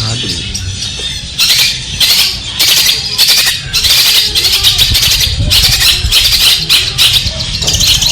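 Long-tailed shrike (cendet) singing: harsh, scratchy chattering phrases in quick succession with short gaps, over a low rumble.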